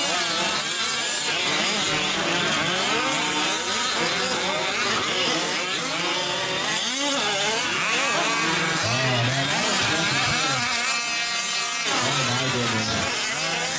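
Several 1/5-scale gas RC trucks' two-stroke engines racing, their pitch constantly rising and falling as they rev up and back off, overlapping one another.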